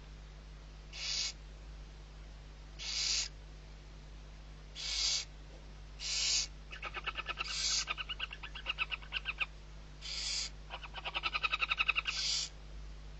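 Barn owl chick giving harsh hissing begging screeches, seven short bursts about two seconds apart. From about the middle, two runs of rapid pulsed chittering calls come in between the hisses.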